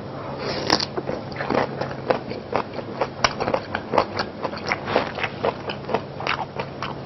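A person biting into food and chewing it close to a clip-on microphone: a run of short, sharp mouth and chewing sounds, about three a second.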